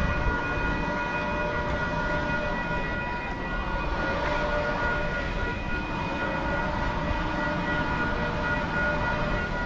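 A train running along the beachside tracks: a steady low rumble with a high, steady whine over it.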